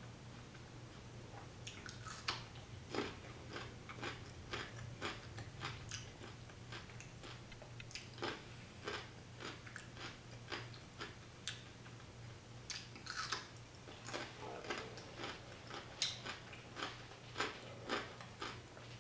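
Raw jicama fries bitten and chewed close to the microphone: a run of crisp crunches, about two to three a second, over a steady low hum.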